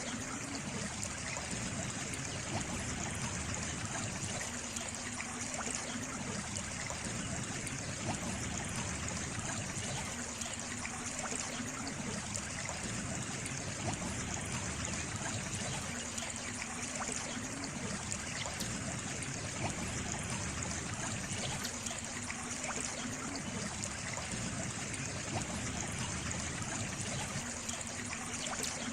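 Water trickling steadily, like a small stream running.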